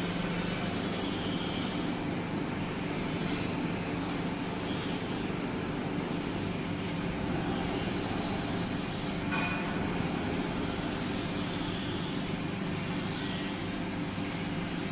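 Hydraulic baler's electric motor and pump running, a steady hum with no change in pace.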